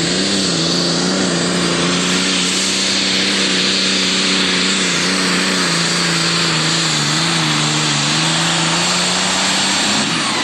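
Turbocharged super stock pulling tractor's engine running hard at high rpm, a loud, steady drone that wavers slightly in pitch and sags a little near the end.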